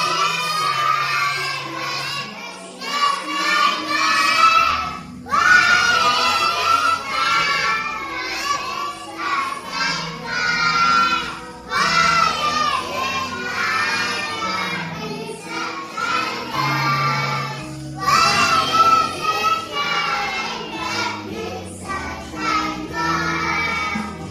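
Children singing a song in phrases with short breaks, over a musical accompaniment.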